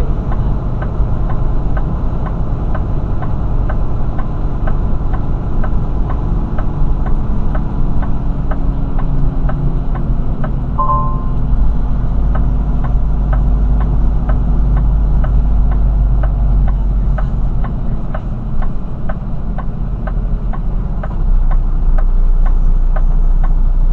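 Semi-truck cab interior while driving: a steady low engine and road drone with an even ticking of about two clicks a second, and one short beep about eleven seconds in.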